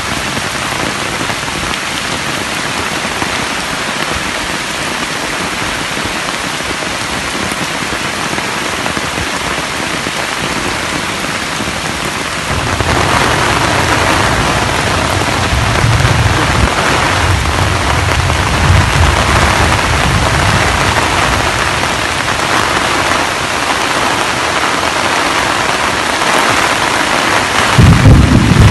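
Steady rain falling. About twelve seconds in it grows louder, and a low rumble that rises and falls joins it.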